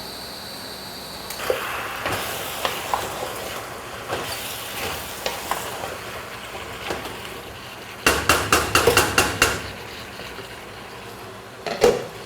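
Food sizzling in a cooking pot, with a metal spoon clinking and scraping against the pot as it is stirred; a quick run of loud clinks comes about eight seconds in, and a single knock near the end.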